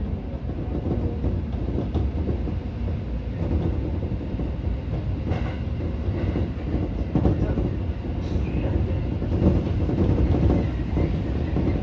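Seibu 2000-series electric train running along the track, heard from the driver's cab: a steady low rumble of wheels on rail with irregular clicks, growing a little louder toward the end.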